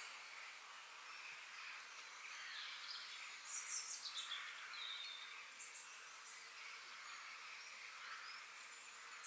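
Outdoor nature ambience: birds chirping now and then over a steady high background hiss. The loudest moment is a quick run of high chirps falling in pitch about three and a half seconds in.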